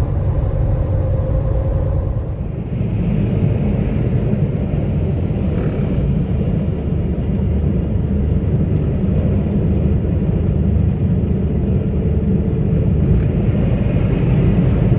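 Semi-truck driving at highway speed, heard from inside the cab: a steady low rumble of engine and road noise, its texture shifting slightly about two seconds in.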